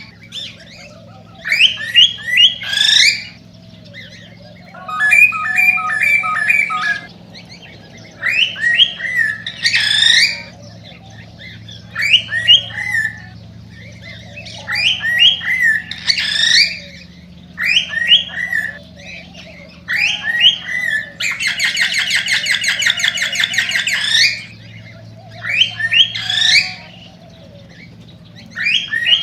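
Male cockatiel singing its excited courtship song, the song of a bird readying to breed: short phrases of rising whistles every couple of seconds, with a long buzzing rapid chatter about three-quarters of the way through.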